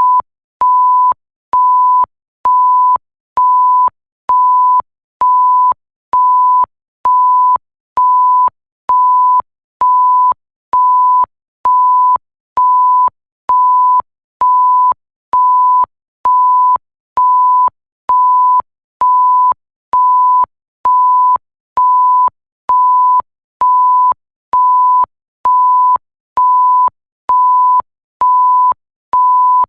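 Electronic bleep tone, a single pure pitch around 1 kHz, beeping on and off at an even pace of about one beep a second, each beep lasting most of that second, with a slight click as each starts and stops.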